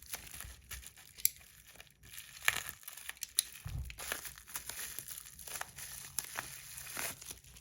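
Packaging crinkling and rustling as it is handled and opened, with a few sharp clicks, the loudest about a second and two and a half seconds in.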